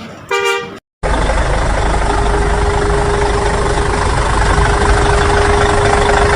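A short bright pitched tone, then a loud steady engine sound effect with a steady hum running without change, which cuts off abruptly near the end.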